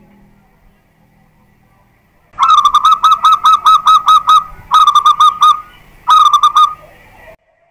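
Zebra dove (perkutut) singing: three loud phrases of quick, evenly repeated cooing notes, about five a second. The first phrase, of about ten notes, starts a little over two seconds in and is the longest; two shorter phrases follow. The song cuts off suddenly near the end.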